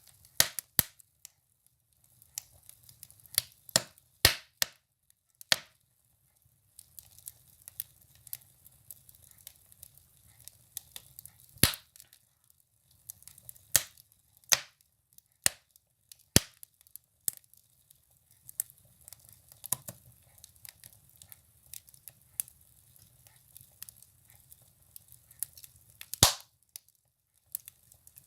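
Firewood burning in a stove, crackling with sharp, irregular snaps and pops over a faint low rumble of the fire. The loudest snaps come about twelve and twenty-six seconds in.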